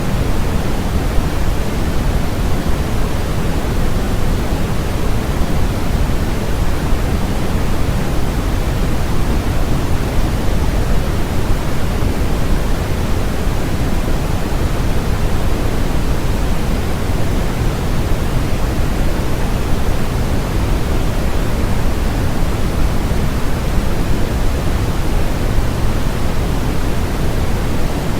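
Steady electronically generated white noise, an even, unbroken hiss with no change, fuller in the low end than in the treble.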